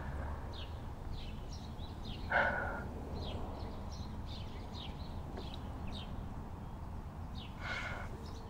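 Birds chirping faintly, short falling calls repeated throughout, with two brief louder sounds, one a couple of seconds in and one near the end.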